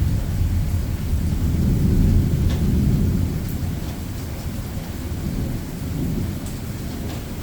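Thunder rumbling, loudest in the first three seconds and then easing off, with steady rain falling.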